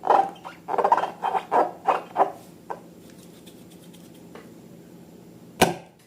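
Slime being worked by hand, a quick run of short squishing sounds for the first two and a half seconds, then a single sharp burst near the end.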